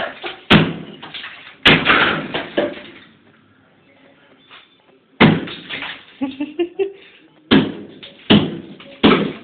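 Hard blows knocking at a thick build-up of ice in a fridge's freezer compartment, each one a sharp knock with a short rattling tail. Six or so strikes come at uneven intervals, with a pause of about two seconds near the middle.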